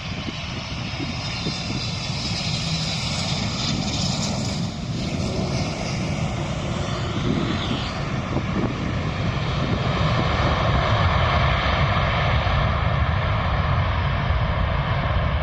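Jet airliner passing low, its engine roar growing louder, with high whining tones that slide slowly down in pitch.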